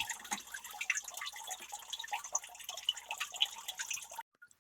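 Water splashing and trickling in a basement sump pit, cutting off abruptly about four seconds in.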